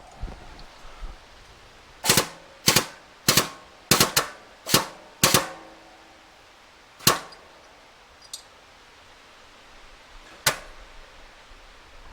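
Sharp knocks of metal work at a shop press straightening a motorcycle fork tube: a quick run of seven in about three seconds, then two more spaced a few seconds apart.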